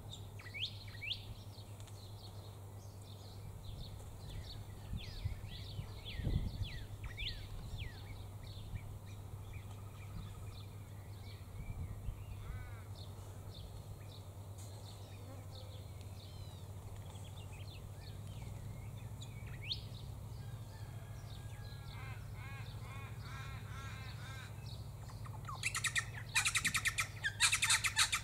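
Wild birds calling: many short chirps and whistles, a quick repeated call about three quarters of the way in, then loud harsh squawking calls near the end over a low steady hum.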